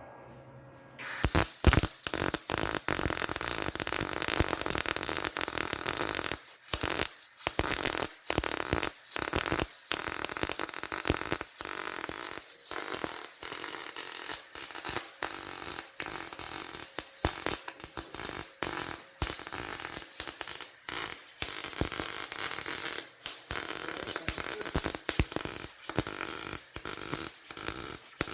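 Electric welding arc crackling and sizzling, starting about a second in and broken by many short pauses between welds.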